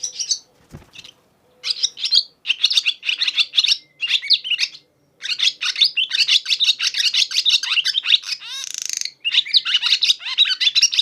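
A swallow's twittering song: runs of rapid, high chirps in bouts with short pauses, with a brief rasping note about eight seconds in.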